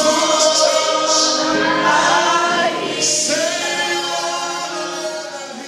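Choir or congregation singing a gospel song, many voices held on long notes, fading out near the end.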